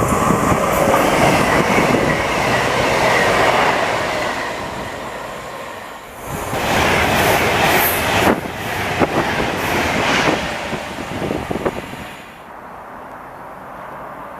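A train running past on the rails: loud wheel and rail noise with clicks over the rail joints, swelling again about halfway and dying away near the end.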